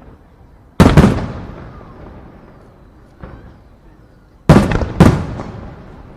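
Aerial firework shells bursting in loud bangs: a close pair about a second in and another pair near the end, each trailing off in a rolling echo, with a fainter pop between them.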